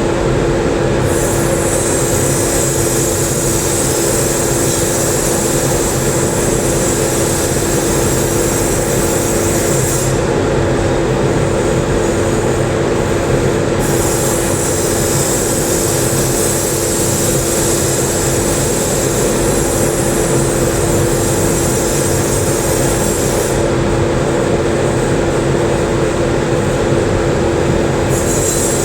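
TIG welding arc hissing and buzzing in long stretches of several seconds, cutting out twice and starting again, over a loud steady hum with one held tone.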